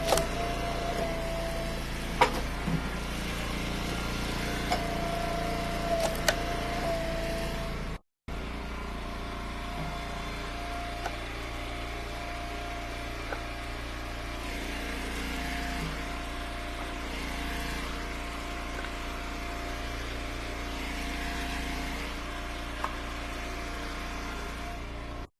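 Eastonmade Ultra wood splitter's engine running steadily, with a few sharp knocks and cracks of wood being split and handled in the first several seconds.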